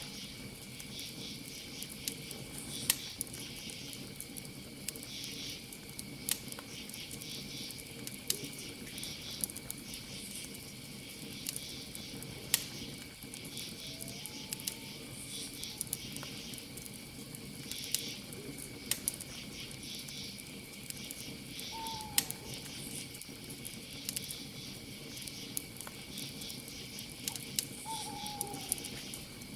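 Campfire crackling with frequent sharp pops over a low hiss, against a steady chorus of crickets chirping in pulses. A few short gliding animal calls sound now and then, twice in the second half.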